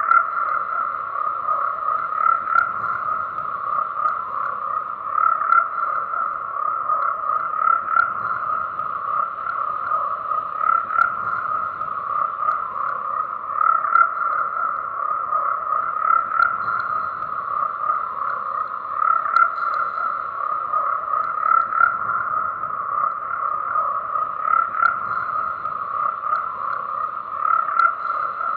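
A dense chorus of frogs croaking, many calls overlapping into one continuous, steady pulsing sound with no pauses.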